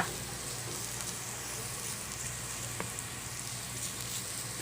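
Diced beetroot sizzling as it sautés in margarine in a pan. A sharp click comes right at the start and a lighter one near three seconds in.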